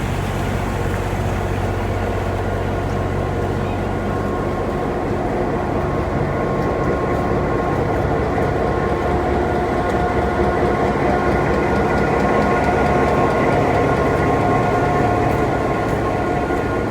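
Excursion train riding along the track: a steady rail rumble with a steady high-pitched squeal from the wheels or brakes held over it, growing a little louder in the second half.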